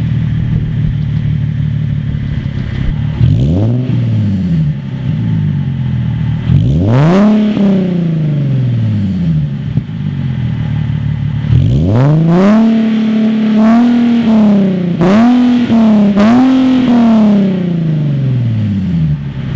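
Nissan 370Z's 3.7-litre V6 breathing through a Stillen long-tube intake and an aFe Takeda 2.5-inch cat-back exhaust, free-revved while parked. From idle it gives two small blips, then a sharper rev that falls back to idle. Later it holds a higher rev with three quick blips on top, then settles back to idle.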